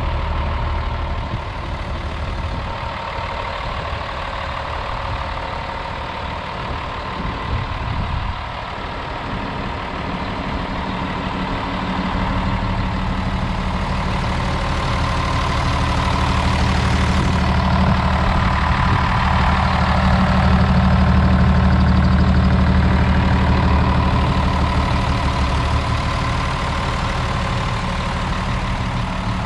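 Diesel engine of a 2014 Hino 268A medium-duty truck, an inline-six, idling steadily, growing louder through the middle stretch and easing again near the end.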